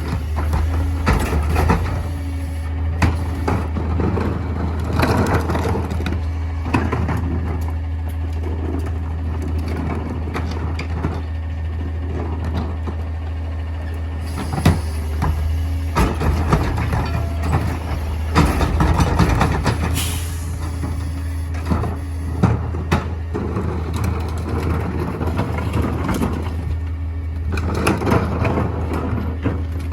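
Mini garbage truck running with a steady low engine hum, with frequent clanks and knocks as it works its trash-packing mechanism.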